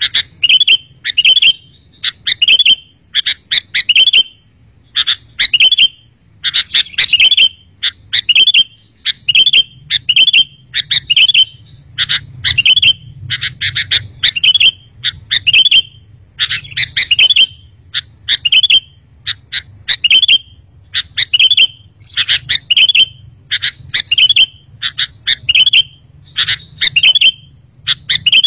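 Sooty-headed bulbul (kutilang) singing: short, bright chirping phrases repeated rapidly, one after another, without a break.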